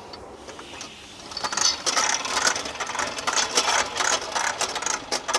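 Rapid, irregular metallic clicking and rattling that starts about a second and a half in: metal parts of a hose reel being worked into place.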